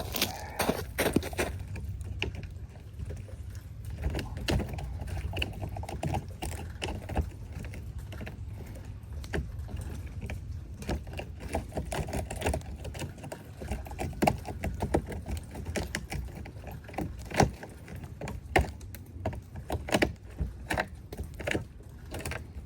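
Ice and frozen slush being broken and scraped off by hand around an electric car's charging port: irregular crunches and cracks over a steady low rumble.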